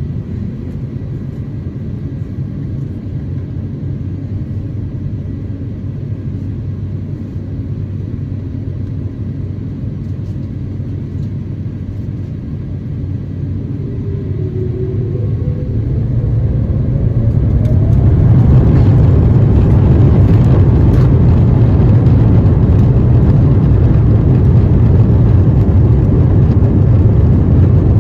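Airbus A350-900's Rolls-Royce Trent XWB engines heard from inside the cabin. A steady low rumble gives way, about halfway through, to a rising whine as the engines spool up. The noise grows much louder within a few seconds and stays loud and steady: takeoff thrust at the start of the takeoff roll.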